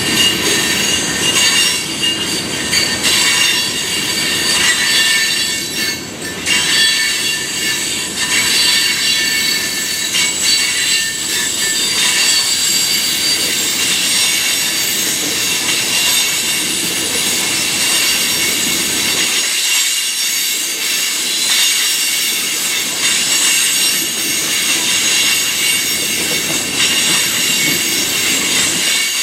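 Freight train cars rolling past with their wheels squealing: many steady high-pitched squeals over the rumble of the cars. The low rumble drops away about two-thirds of the way through while the squeal carries on.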